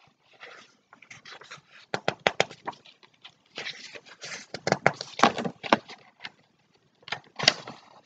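Pages of a picture book being flipped and handled: irregular rustles and short paper clicks in bunches, busiest about two seconds in and again around the middle.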